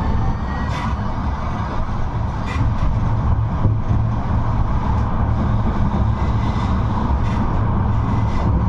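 A 71-628-02 tram running along its track: a steady low rumble of wheels on rail, with a thin whine rising in pitch near the start and a few sharp clicks from the running gear.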